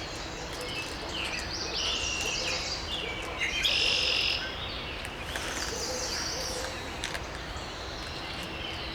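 Birds chirping and singing in the background, in repeated short phrases, loudest about four seconds in.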